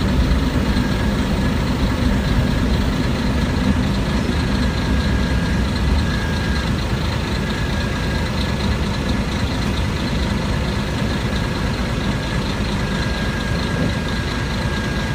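Diesel engine of a Kashima Rinkai Railway 6000-series railcar, heard from inside the passenger cabin as a steady low rumble with a faint thin whine above it.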